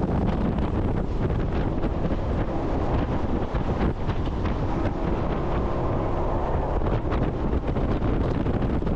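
Wind buffeting the microphone on a jet boat running at speed, over the steady noise of the boat and the water rushing past.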